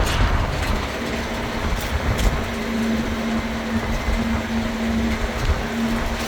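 Tourist road train running along the road, heard from aboard: a steady engine and road rumble with a few light rattles and clicks, and a steady hum that sets in about a second in.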